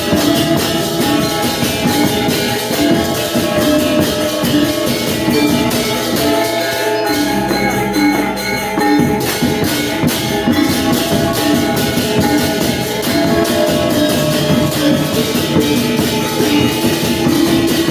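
Balinese gong kebyar gamelan playing an instrumental piece: bronze metallophones and gongs struck in dense, fast figures over drums, at a steady loud level throughout.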